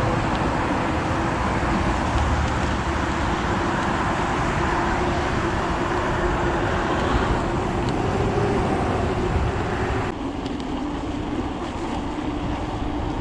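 E-mountain bike motor whining steadily under pedalling, over tyre rumble and wind noise on the trail. About ten seconds in the hiss drops off and the whine sits a little lower.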